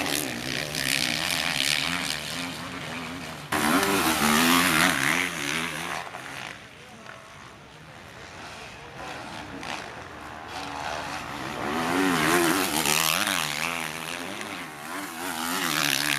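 Motocross race bikes' engines revving hard, the pitch rising and falling quickly with the throttle and gear changes. The sound jumps louder suddenly about three and a half seconds in, fades somewhat midway, then swells again.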